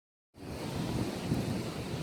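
Strong gusting wind rushing and buffeting the microphone, starting about a third of a second in.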